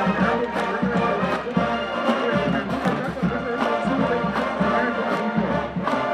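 College marching band playing, brass instruments holding sustained chords over drums beating a steady pulse about twice a second.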